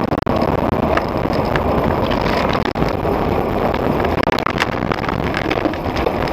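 Steady road and engine noise of a car driving, heard from inside the cabin, with scattered sharp clicks and rattles.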